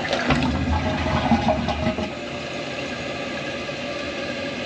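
Toilet flushing and its tank refilling through the fill valve: water gushes for the first couple of seconds, then settles to a steady rushing hiss of the refill. The fill valve has just been freed of a plastic cap that was blocking it and raised in height.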